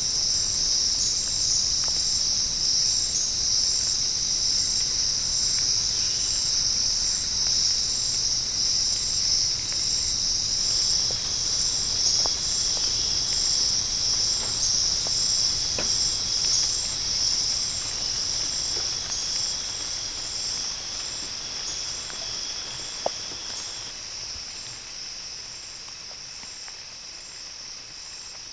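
Tropical rainforest insect chorus: a dense, steady, high-pitched shrill with a fine pulsing texture and a few thin sustained whistling tones beneath it, easing down in level over the last few seconds.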